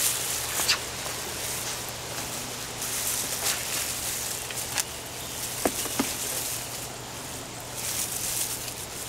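Hands digging through potting soil in a container to harvest potatoes: a steady rustle and scrape of soil, with a few sharp clicks and knocks.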